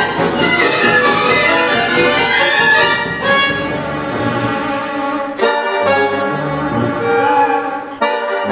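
Chamber orchestra playing: bowed strings and winds in a dense passage of contemporary classical music, with a change of texture about three seconds in and sharp accented chords later on.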